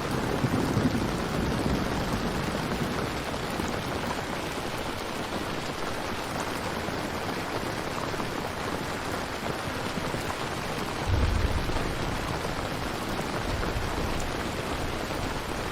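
Steady rain falling, with a low rumble near the start and another brief one about eleven seconds in.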